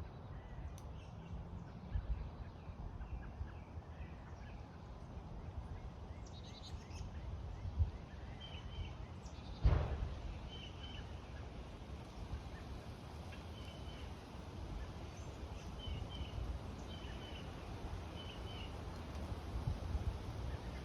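Backyard birds giving short chirping calls, repeated every second or two, over a steady low rumble. A few dull thumps, the loudest about ten seconds in.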